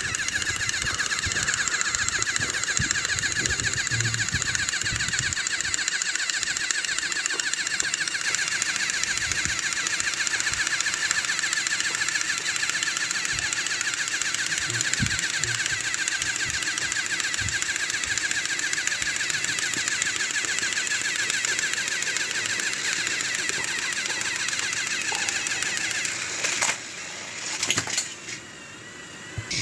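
Battery-powered Thomas & Friends toy train engines' small electric motors and plastic gears running, a steady whir with fast, dense clicking, dropping away near the end.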